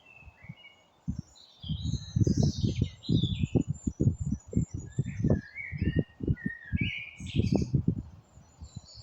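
Several birds singing and chirping, with short warbling calls throughout. Irregular low thumps and rumbles on the microphone start about a second and a half in and are the loudest sound.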